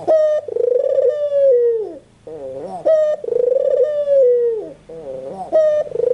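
A white Barbary dove cooing: repeated rolling, trilled coos that fall in pitch, about two full phrases and the start of a third.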